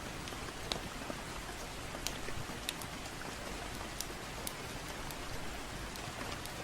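Steady gentle rain, an even hiss, with scattered sharp crackles and pops from a wood fire at irregular intervals.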